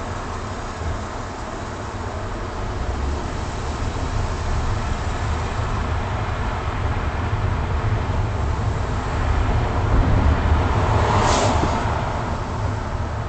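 Road and engine noise of a moving patrol car heard from inside the cabin: a steady low rumble that swells somewhat louder toward the end, with one short, sharper sound about eleven seconds in.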